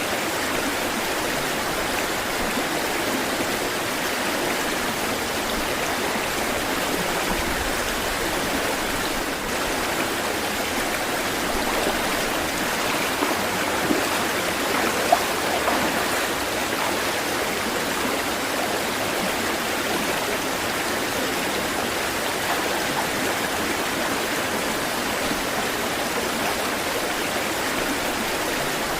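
Running water, a steady rush like a stream over rocks, with a couple of brief splashes about halfway through.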